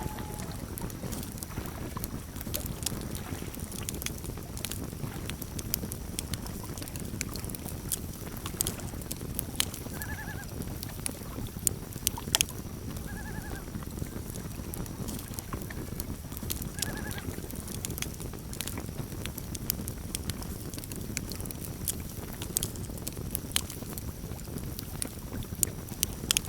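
Campfire crackling and popping, with a steady low rumble of burning wood under frequent sharp snaps. Three short, arched calls from an animal sound about a third of the way in, a few seconds apart.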